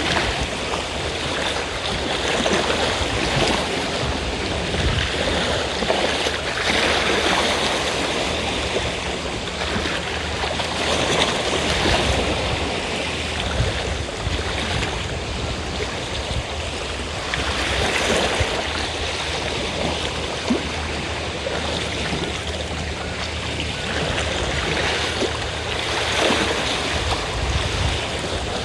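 Sea waves washing onto the shore, the surf swelling and easing every few seconds, over a faint steady low drone typical of a fishing boat's engine.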